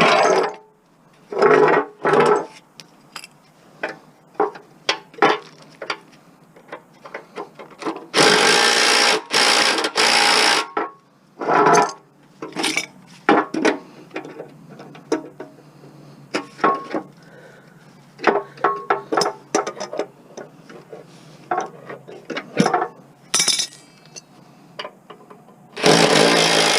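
Metal tools clinking and knocking on the parts of a lawn mower being stripped for scrap. About eight seconds in, a power tool runs in one louder burst of about three seconds.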